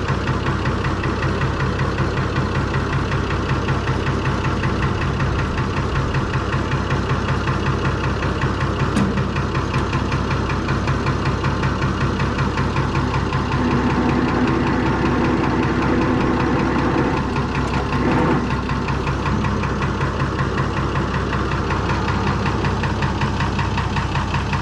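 Perkins six-cylinder diesel engine in a Fordson Major tractor, idling with a steady, even diesel knock. It gets a little louder for about five seconds around the middle.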